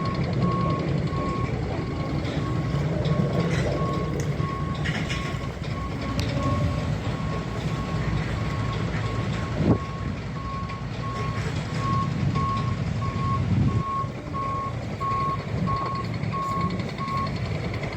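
Reversing alarm on a heavy construction vehicle, beeping steadily about one and a half times a second and stopping near the end, over the running diesel engine. One sharp knock comes about halfway through.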